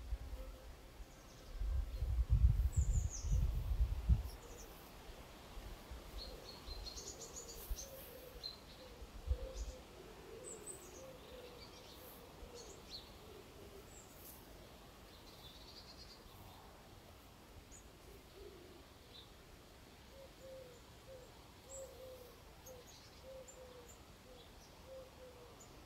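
Wild birds calling outdoors: a low call of short notes repeated in runs, with scattered high chirps over it. A low rumble fills the first four seconds.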